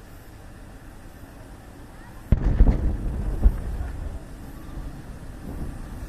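Aerial fireworks bursting: a sudden loud bang a little over two seconds in, more bangs over the next second, then a low rumble dying away.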